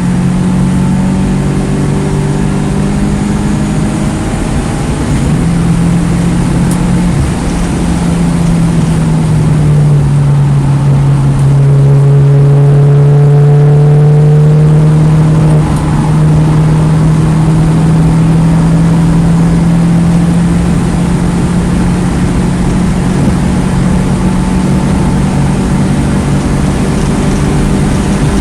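The 2009 Mini Cooper S's turbocharged 1.6-litre four-cylinder is running hard at track speed. Its engine note steps down in pitch about a third of the way through, swells loudest around the middle, then briefly drops in level and settles into a steady pull.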